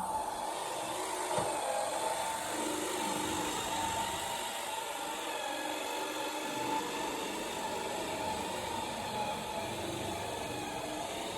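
Bissell Power Force vacuum cleaner running steadily with a whining hum, with a knock at the start and another about a second and a half in.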